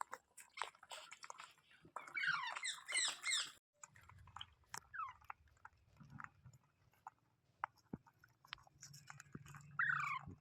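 Green parrot giving a rapid string of harsh, chattering calls for about a second and a half, then one more falling call near the end, with scattered small clicks and crunches between the calls.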